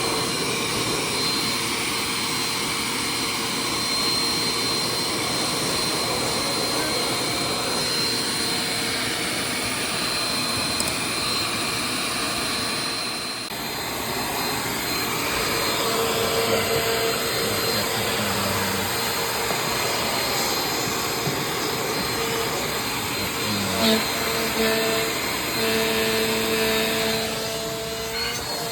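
Vacuum cleaner running steadily with a motor whine; the tone shifts abruptly about halfway through.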